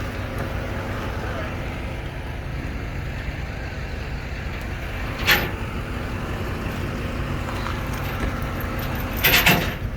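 Vehicle engine running steadily at low speed with a low rumble. A short sharp burst of noise comes about five seconds in, and a cluster of them near the end.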